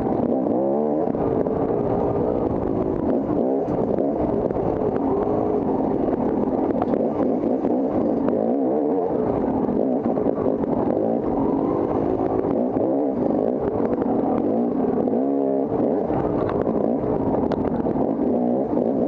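Off-road dirt bike engine running hard under load, its revs rising and falling continuously, with quick climbs in pitch about half a second in and again near the end.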